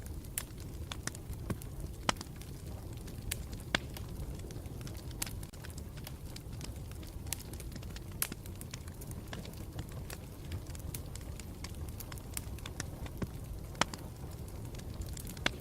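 Campfire burning with a steady low rumble and irregular crackles and sharp pops of burning wood, a few pops standing out louder.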